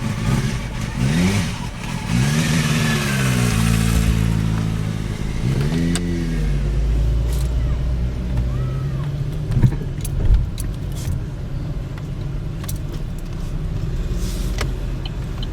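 Motorcycle engine revved three times, pitch rising and falling, then settling to a steady idle. Two sharp clicks come about two-thirds of the way through.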